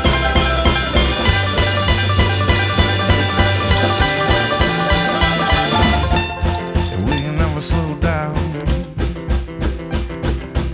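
Live string band of acoustic guitar, upright bass, mandolin, fiddle, banjo and drums playing an instrumental passage with a steady beat. About six seconds in, the full sound drops back to a sparser, evenly picked rhythm.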